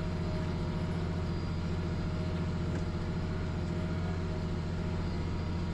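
International 1586 tractor's diesel engine running steadily under light load, pulling a corn planter slowly across the field, with a faint steady whine above the engine.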